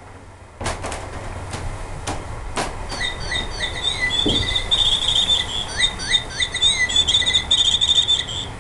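Bird song: a dense run of quick chirps and trills that starts about three seconds in and stops suddenly near the end. A few sharp knocks come before it.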